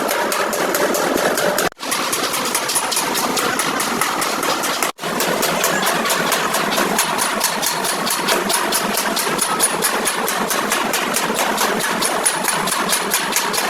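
An engine running steadily with a fast, even pulse of about five beats a second, broken twice by very brief gaps.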